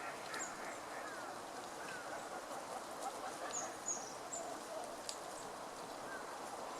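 Steady outdoor background noise with short, very high bird calls scattered through it, a quick run of them about three and a half seconds in.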